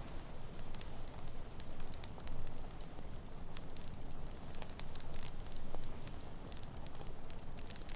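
Campfire crackling, with irregular sharp pops and snaps scattered throughout, over a steady low rumble of ocean surf.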